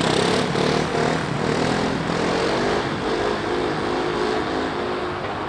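Kawasaki KLX 300's single-cylinder four-stroke engine running under steady throttle, its pitch holding fairly level with small wavers and easing off a little toward the end.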